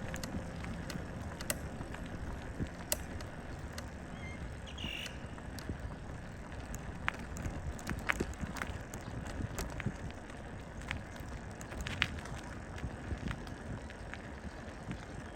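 Folding bicycle being ridden: a steady low rumble of tyres and air, with scattered light clicks and a short high squeak about five seconds in.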